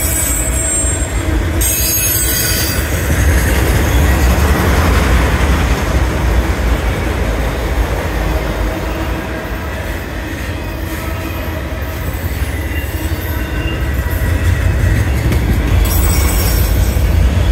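Autorack freight cars rolling past close by: a steady, loud rumble and roar of steel wheels on rail, with brief high screeching of wheel squeal about two seconds in and again near the end.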